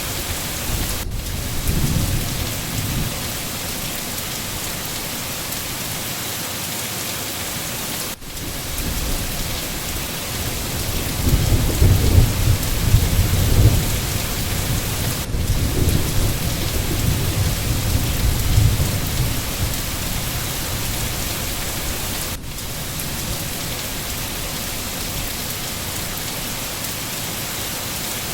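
Steady heavy rain with low rolling thunder, one rumble near the start and a longer, louder roll from about 11 to 19 seconds in.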